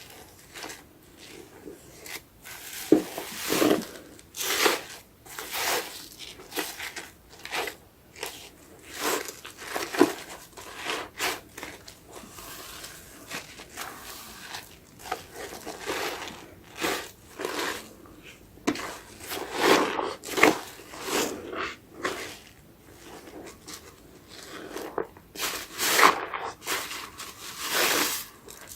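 A foamy, soap-soaked sponge squeezed and pressed by hand, giving irregular crackling, squelching strokes. Some strokes are clearly louder than the rest.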